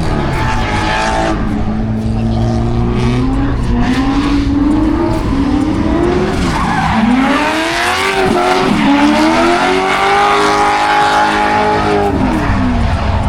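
A car engine revving up and down repeatedly as the car is driven hard, with tires squealing from about six seconds in until near the end.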